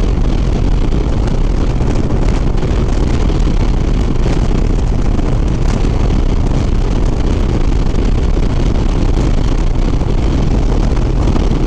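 Steady wind rush on the rider's microphone at highway speed, over the low, even drone of a Harley-Davidson Sport Glide's V-twin engine at cruising speed.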